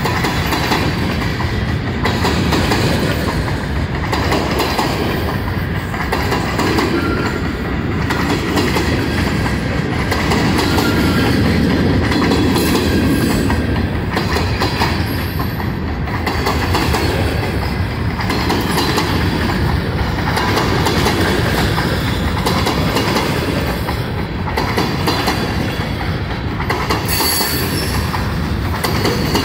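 A long string of empty grain hopper cars rolling past on steel rails, with steady wheel rumble and clatter over the rail joints. A few brief high wheel squeals come through, the clearest near the end.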